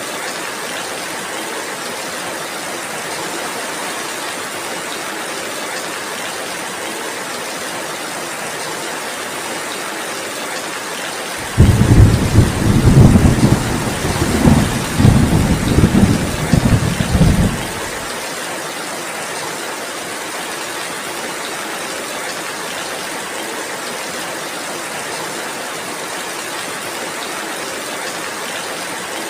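Steady heavy rain. About twelve seconds in, a roll of thunder breaks in suddenly, rumbles low in several swells for about six seconds, then gives way to the rain again.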